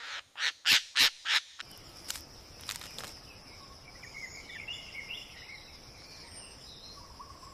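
Five sharp knocks in quick succession in the first second and a half, followed by forest ambience: birds chirping and a steady high-pitched whine.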